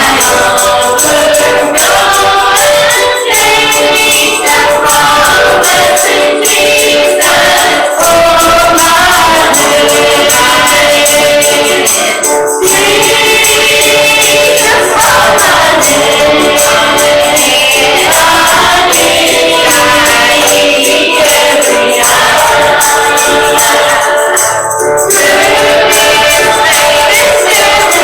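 Gospel song sung by a group of voices, with a tambourine keeping a steady beat.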